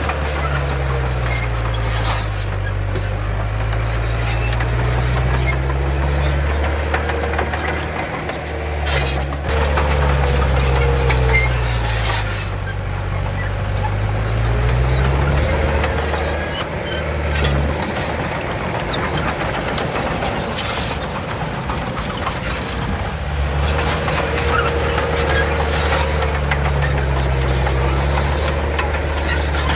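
Komatsu D31 bulldozer's diesel engine working under load, its pitch sagging and climbing back again and again as it pushes soil. A wavering squeal and a few clanks ride over it.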